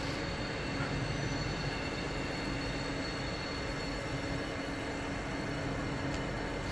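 Steady rumble and hum of trains at a station, with a faint steady high whine over it.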